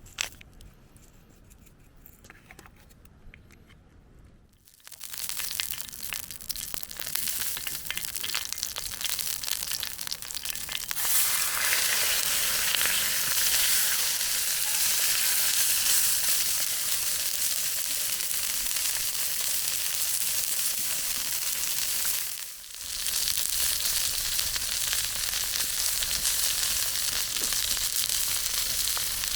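Chicken frying in a pan over a campfire. A steady sizzle starts about five seconds in, after a few faint crackles, grows louder a few seconds later, and breaks off briefly past the middle.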